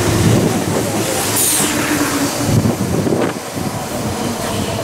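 Meitetsu 5300 series electric train running along the station platform, its wheels and motors making a steady loud noise.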